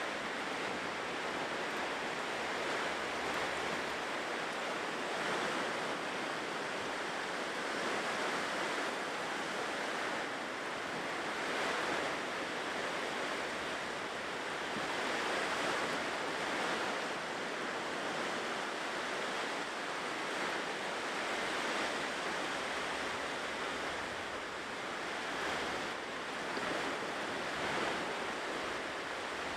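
Ocean waves breaking and washing on a shore, a continuous surf noise that swells and eases every few seconds.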